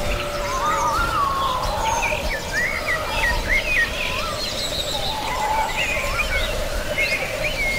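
Woodland bird chorus: several birds chirping and singing at once, short rising and falling calls overlapping, over a steady background hiss. A long, slowly falling low tone fades out in the first two seconds.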